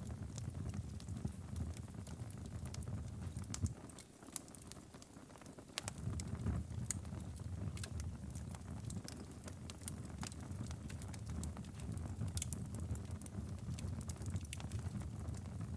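Wood fire in a fireplace crackling, with irregular sharp pops and snaps over a steady low rumble of ocean and rain. The low rumble dips for about two seconds a few seconds in, while the crackles carry on.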